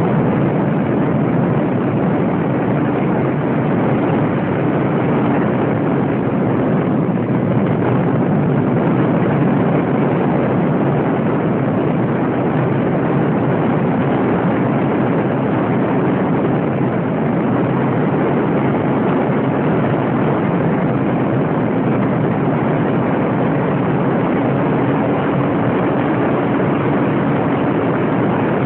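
Radio-controlled model airplane in flight: a steady, loud rush of propeller and wind noise with a faint motor hum underneath.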